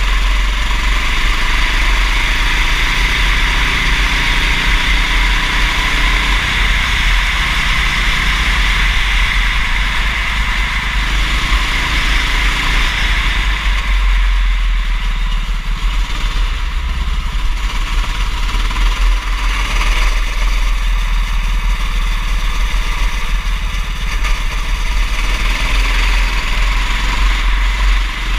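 Go-kart engine running at racing speed, its pitch rising and falling as the kart accelerates and brakes, under a steady hiss and a deep wind rumble.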